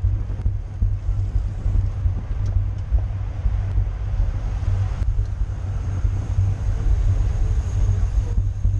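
Wind buffeting a camera microphone on a bicycle at racing speed: a steady low rumble with a hiss of air above it.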